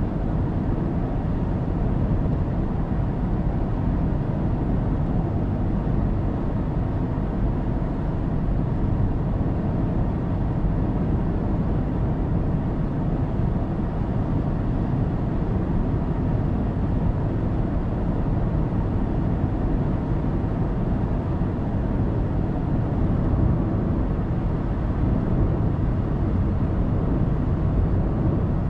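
Car driving at expressway speed: a steady low rumble of tyres on the road and running engine, unchanging throughout.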